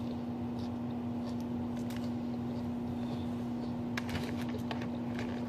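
A steady background hum with a few faint clicks and mouth sounds of someone eating a salad between bites.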